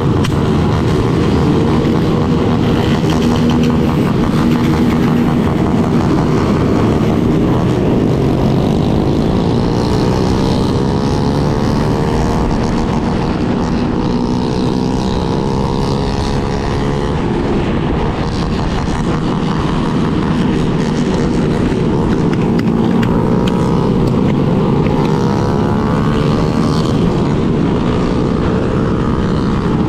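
Yamaha Lander 250 single-cylinder four-stroke engine running under way over a steady low rush of wind and road noise, its note climbing as it accelerates about a third of the way in and again past two-thirds.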